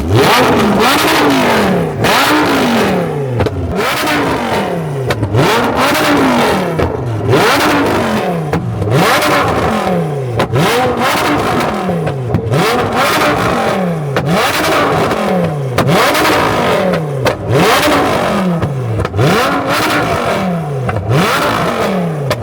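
A car engine being revved hard over and over in quick blips, each rev climbing fast and dropping away, roughly one every second and a half.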